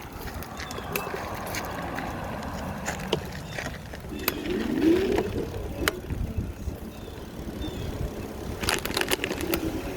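Steady rumble and noise of a vehicle riding along a trail, with scattered clicks and rattles and a short rising whine about halfway through.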